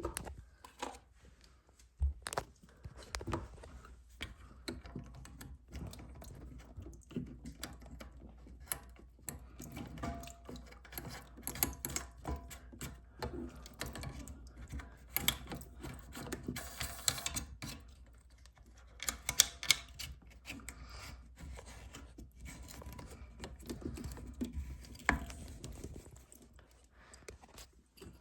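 Irregular clicks and light knocks of hand work on small hard parts, over a low steady hum.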